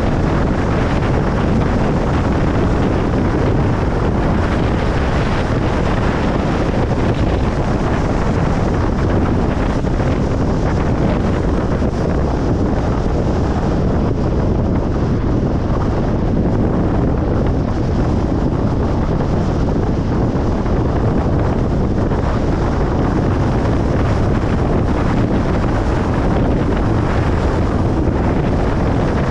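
Steady tyre and wind noise of a car moving at highway speed, an even low-pitched rush that holds level throughout.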